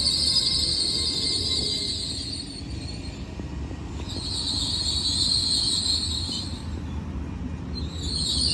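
Hitachi Class 802 train at a station platform. It gives a steady low rumble with a faint whine that falls in pitch early on. A high-pitched hiss sounds at the start, stops, and returns about four seconds in. Near the end comes a high whine that rises in pitch.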